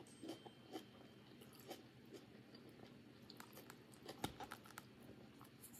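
Quiet close-up chewing of food with small wet mouth clicks, and a single sharp tap, a plastic fork against the food container, a little after four seconds in.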